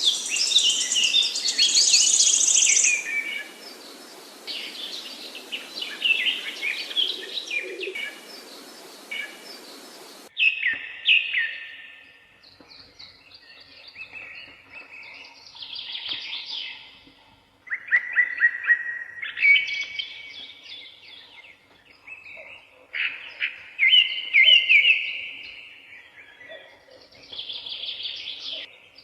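Songbirds singing in woodland: for the first ten seconds several birds sing at once over a steady hiss, then the recording changes abruptly to a quieter background with separate song phrases a second or two long, some of them fast trills.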